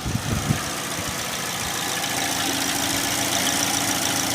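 2009 Chevy Cobalt engine idling steadily on fresh oil, run to check for leaks after an oil change. A few short knocks come in the first half second.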